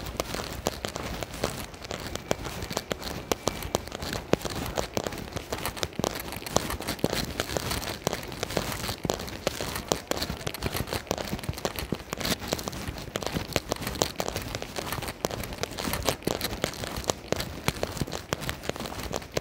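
Rain falling during a walk, heard as a dense, irregular crackle of raindrops ticking close to the microphone.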